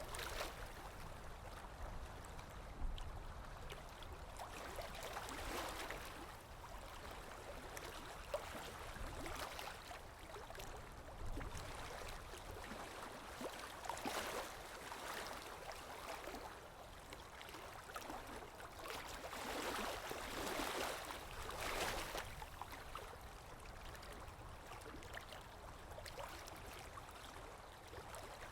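Sea waves washing ashore: a continuous wash of water that swells and fades every few seconds, over a low rumble.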